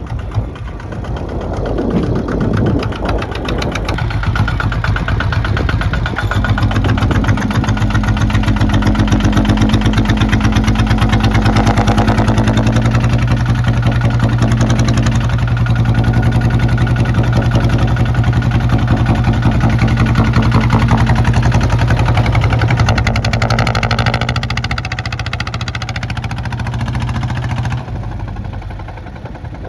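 Kubota ZT155 tractor's single-cylinder diesel engine running with an even, rapid firing beat. It picks up over the first several seconds, holds steady, then eases back and drops off near the end.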